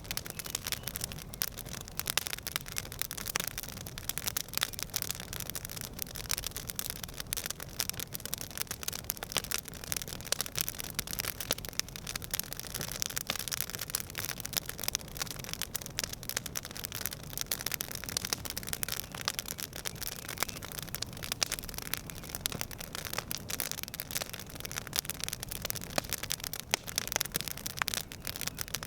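Campfire crackling steadily: a dense run of sharp pops and snaps over a soft hiss of burning wood.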